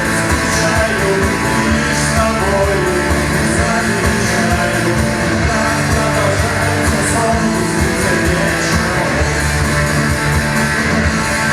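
A rock band playing live, with guitar prominent over a steady beat.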